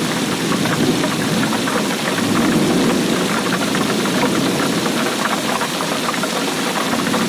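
Steady rainfall, a dense patter of drops striking a surface over an even hiss.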